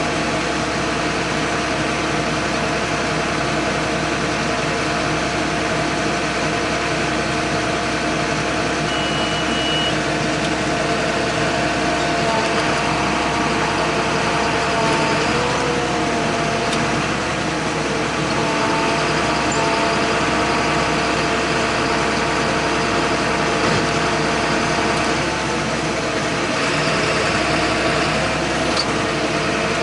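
John Deere 8100 tractor's six-cylinder diesel engine running steadily while pulling a baler through the hay, its pitch sagging briefly a few times as the load comes on.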